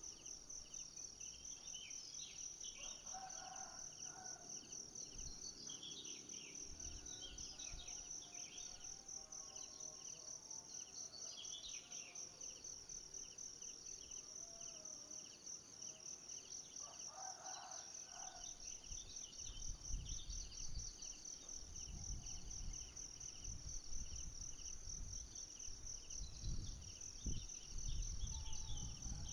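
Tropical forest ambience: insects trilling steadily in a fast, high, pulsing chorus, with scattered bird chirps and a couple of short, lower calls. From about two-thirds of the way in, irregular low rumbles come and go.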